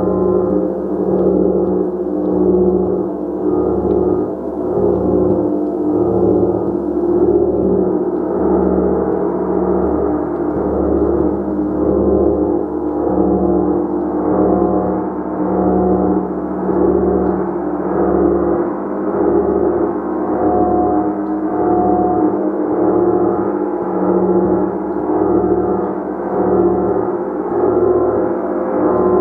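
A gong played continuously with steady repeated strokes, giving a dense wash of overlapping tones that swells and eases about every second and a half.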